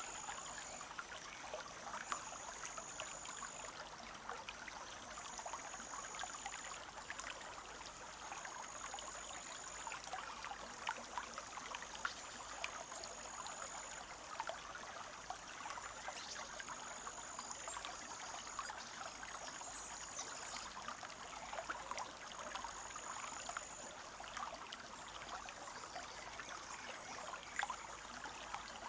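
Forest stream running and trickling, a steady rush of water dotted with small splashes. A high, thin note about a second long sounds again and again, every two to three seconds.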